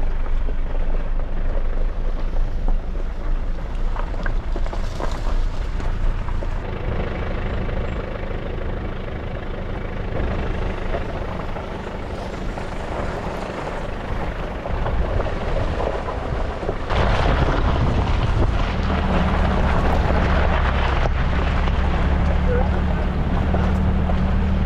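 A 4x4 truck driving down a gravel track, heard from inside the cab: a continuous engine and tyre rumble. About 17 seconds in it turns louder and steadier, with a low hum.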